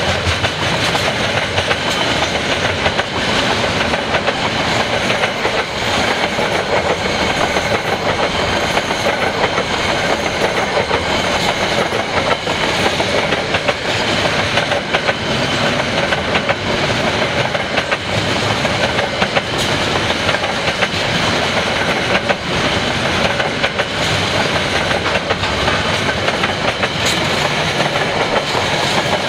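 Freight train's container flat wagons rolling past close by: a steady rumble and clatter of steel wheels on the rails, with frequent clicks as the wheels run over the track.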